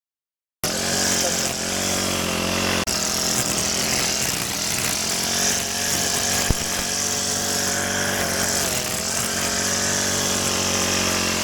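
Small petrol engine of a grass cutter running steadily at working speed, its pitch wavering slightly as it cuts. It starts abruptly about half a second in after silence, and there is one sharp click about two-thirds of the way through.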